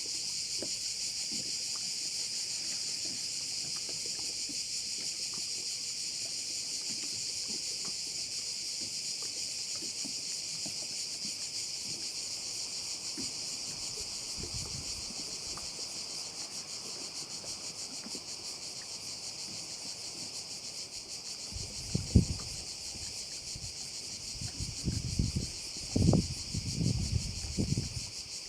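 Dense, steady high-pitched chorus of many cicadas singing together, without a break. Near the end, a few low thumps rise above it, the loudest moments.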